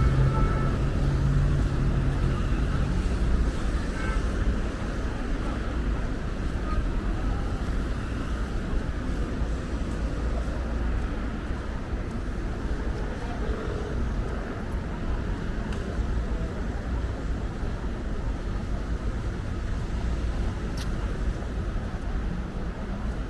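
Steady low rumble of vehicle noise, with a low engine hum that fades out in the first few seconds.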